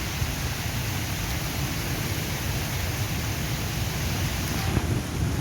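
Heavy stormy rain falling steadily on maize plants, a constant hiss, with wind buffeting the microphone as a low, fluttering rumble.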